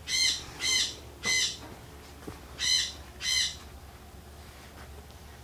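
A bird calling: five short, high-pitched calls, three in quick succession and then two more about a second later.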